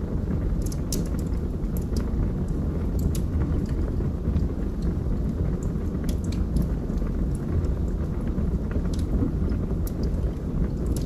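Wood fire burning in a fireplace: a steady low roar of flames with irregular sharp crackles and pops from the burning logs.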